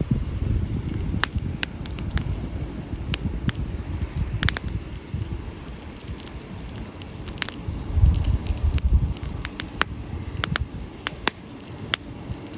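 Wood campfire burning: sharp crackles and pops at irregular intervals over a low rumble, which swells about two-thirds of the way through.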